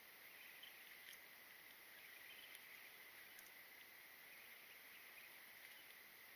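Near silence: a faint steady hiss with a thin high, even band running through it, and a few faint ticks.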